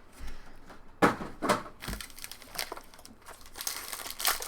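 Trading-card pack wrappers crinkling and rustling as packs are opened and cards handled, in a string of irregular rustles, the loudest about a second in.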